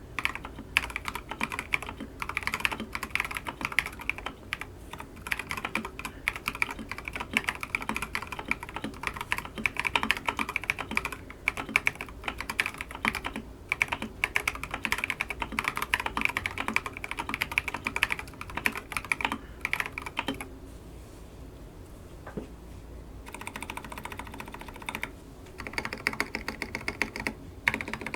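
Fast typing on a custom Wuque Studios Ikki68 Aurora mechanical keyboard with Tecsee linear switches, an aluminium plate, Akko ASA-profile keycaps and lubed Durock V2 stabilizers: a rapid, dense run of key clacks. Typing stops for about three seconds roughly two-thirds of the way through, then picks up again with a brief break.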